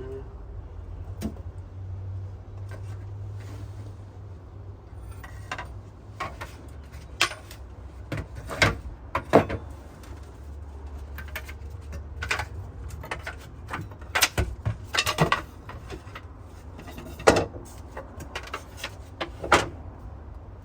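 Wooden knocks, clicks and scrapes, as a Layens beehive's lid and frames are handled and pried, over a low steady rumble.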